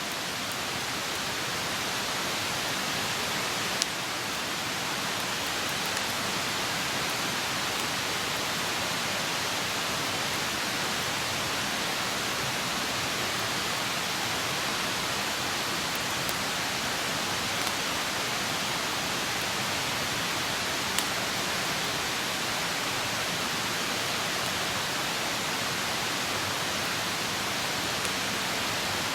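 Open wood campfire burning with a steady hiss, broken by a few sharp crackles and pops, the loudest about four seconds in and again past the middle.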